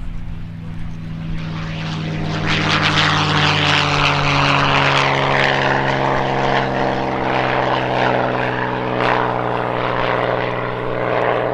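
Hawker Hurricane's Rolls-Royce Merlin V12 engine turning its propeller, running steadily and then opening up to a louder, higher-power run about two and a half seconds in, which holds to the end.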